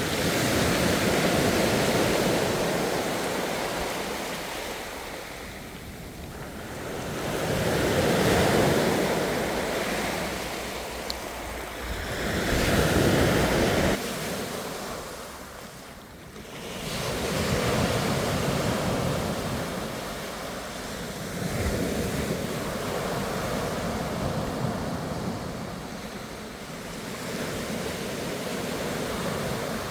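Ocean waves surging and breaking, the wash swelling and fading every few seconds.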